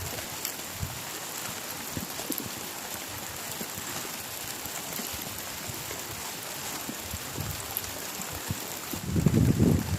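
Heavy rain falling steadily, with scattered sharp drop ticks. About nine seconds in, a louder low rumble swells up for about a second.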